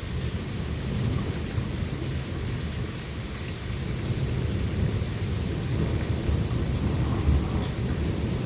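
Thunderstorm: steady rain with a low, continuous rumble of thunder.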